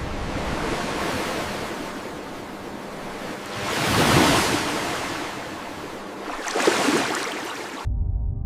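Ocean waves washing, swelling twice, then cutting off suddenly near the end into low ambient music.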